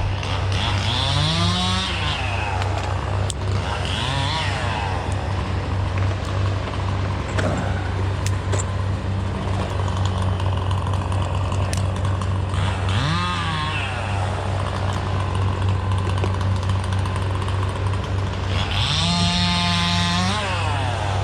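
Stihl MS 261 chainsaw idling steadily and revved up four times. The last rev is held at full throttle for about a second and a half near the end.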